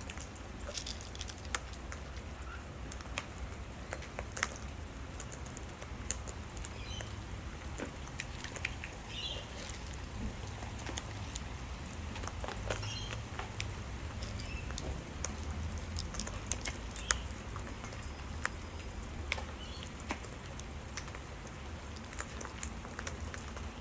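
Wild parrots feeding on seed: scattered, irregular clicks and taps of beaks picking at and cracking seed, with a few faint, short high chirps.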